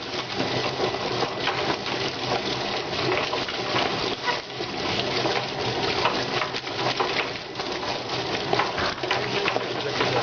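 Chicken plucking machine running with water, giving a dense, steady splashing rattle full of quick knocks.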